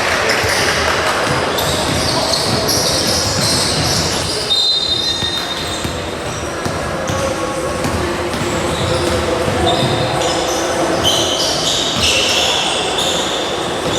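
Basketball game in an echoing indoor gym: the ball bouncing on the court and short high squeaks over a steady crowd chatter.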